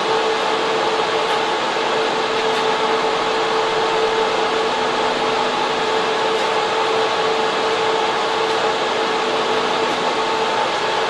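Data center server room: server and air-cooling fans running, a loud, steady rush of air with a constant two-tone hum.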